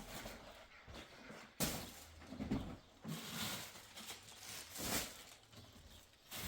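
Household handling noises: a sharp knock about a second and a half in, then several short bursts of rustling and shuffling.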